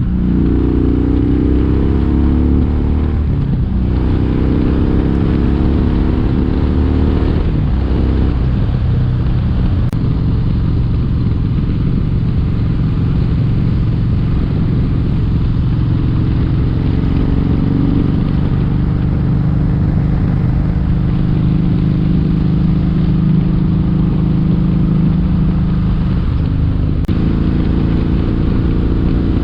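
Kawasaki Vulcan 1700 Vaquero's V-twin engine under way, climbing in pitch through the gears with short breaks at each shift in the first several seconds, then holding a steady cruise, with one more shift near the end.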